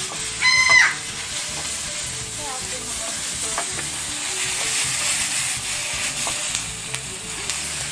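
Beef strips, sausage, onion and green pepper sizzling steadily in a hot pan over a wood fire as they are stir-fried with a wooden spatula. A short high-pitched call sounds once about half a second in.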